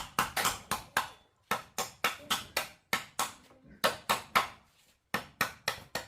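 Rapid chopping blows, like a machete or knife cutting into wood or bamboo: sharp strikes at about four a second, in short runs with brief pauses between them.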